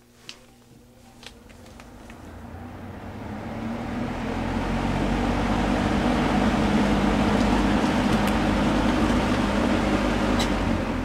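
Vintage three-speed box fan with metal blades and a Westinghouse motor, spinning up: the rush of air and the motor hum build over about five seconds after a click, then run steadily. There is another click near the end.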